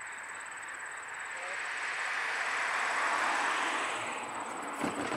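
Distant freight train approaching on the rails: a hissing rush that swells to its loudest about midway, with a few sharp clicks near the end. A thin steady high-pitched whine runs underneath.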